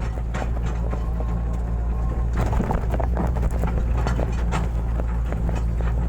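Hitachi excavator's diesel engine running steadily under work, with irregular knocks and clatter from the machine's working gear, busiest in the middle.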